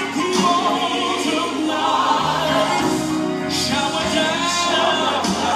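Gospel worship music: a choir singing held, swelling lines over instrumental backing, with a bass line coming in about two seconds in.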